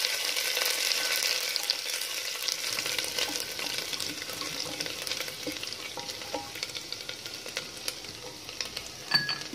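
Crushed ginger and garlic sizzling in hot oil in a pressure cooker, stirred with a wooden spatula that scrapes and taps against the pot; the sizzle fades gradually. A short clink near the end.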